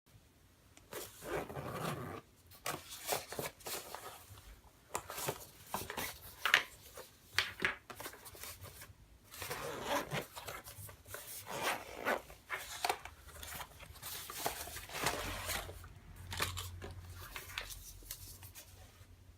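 Hands handling a CamelBak Stowaway 2.0 L hydration reservoir and its drinking tube: irregular plastic crinkling and rustling, broken by sharp clicks.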